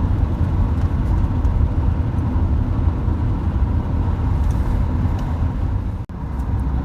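Volkswagen Type 2 camper bus on the road, its newly installed engine being broken in: a steady low engine and road rumble heard from inside the cab. The sound drops out briefly about six seconds in.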